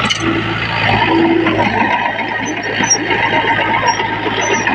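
Small bulldozer's diesel engine running steadily, with a few short high squeaks in the second half.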